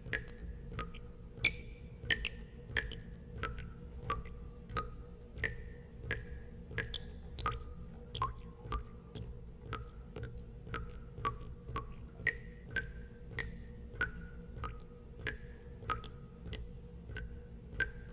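Water drops falling into water, about two a second at an irregular pace, each a short plink at a different pitch, over a steady low hum.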